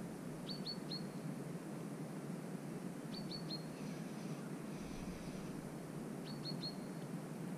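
A bird calling: three quick, sharp chirps in a row, repeated three times about three seconds apart, over a faint steady outdoor hiss.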